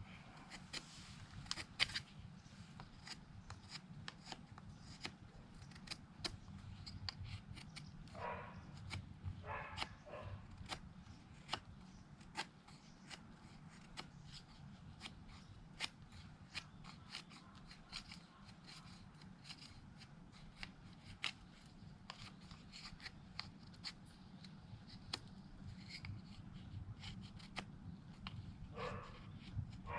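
A Mora knife shaving curls off a wooden stick to make a feather stick, with many short, irregular scraping strokes.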